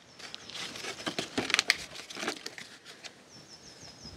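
Plastic seedling pots and trays rustling and knocking as they are handled. Near the end, a quick run of about eight short, high chirps from a small bird.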